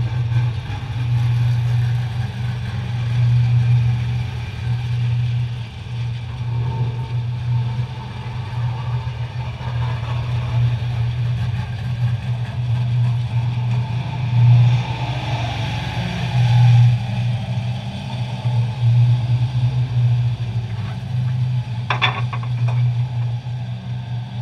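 Race car engine idling with a steady low hum that swells a little now and then, and a brief clatter about 22 seconds in.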